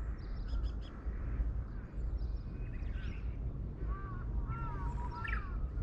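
Birds calling: a few faint high chirps, then a quick series of short arched chirping notes about four seconds in, over a low steady rumble.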